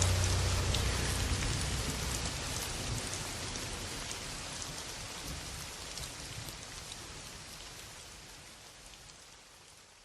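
Steady rain falling, with scattered drop ticks, fading out gradually to near silence by the end. The last low notes of the music die away in the first couple of seconds.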